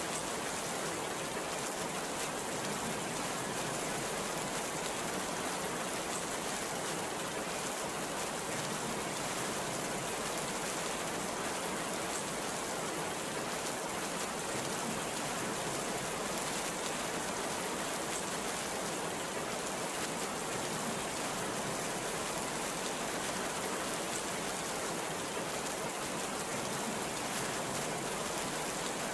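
Very heavy rain falling steadily, a dense, even hiss.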